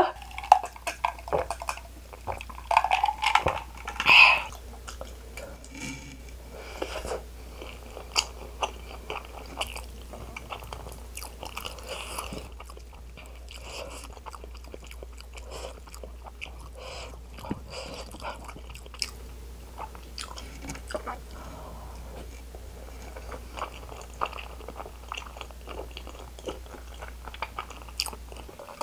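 Close-miked chewing of Buldak spicy stir-fried noodles coated in cheddar cheese, with small clicks of wooden chopsticks on the plate. The mouth sounds are louder in the first four seconds.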